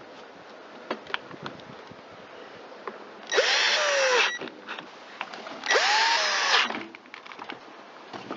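Cordless drill-driver run in two short bursts of about a second each, its motor spinning up and then winding down as it drives screws. A few light clicks of plastic parts being handled come before.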